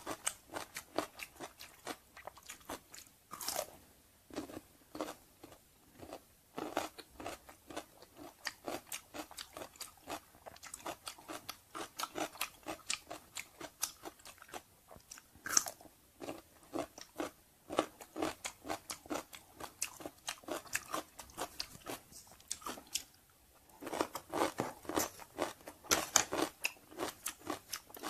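Crisp crunching and chewing of pickled cucumber slices, picked up close by a clip-on microphone: a quick, uneven run of crunches, with a short pause a little past three quarters of the way through.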